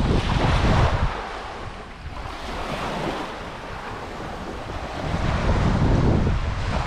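Small waves washing and breaking on a beach, with wind buffeting the microphone; two louder surges come at the start and about five seconds in.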